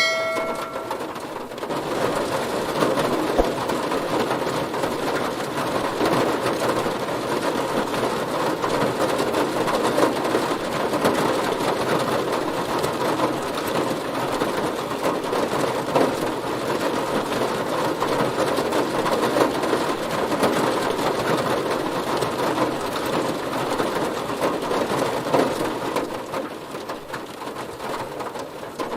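Heavy rain drumming steadily on a car's body, a dense, even patter that thickens a couple of seconds in. A short ringing tone sounds right at the start.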